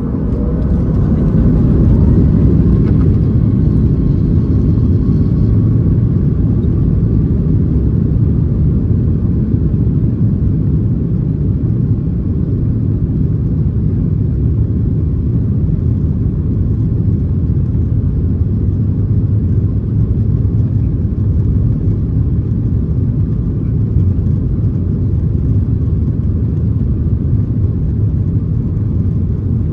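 Boeing 737 MAX 8's CFM LEAP-1B engines and airflow heard from inside the cabin: a loud, steady low rumble that swells about two seconds in and then holds.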